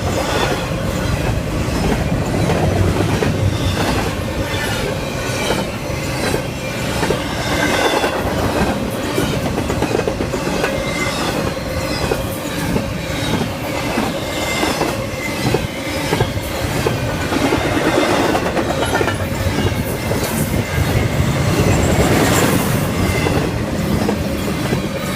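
A CSX freight train rolling past at close range: a heavy rumble with rapid clickety-clack as the car wheels cross rail joints, and a thin steady wheel squeal underneath.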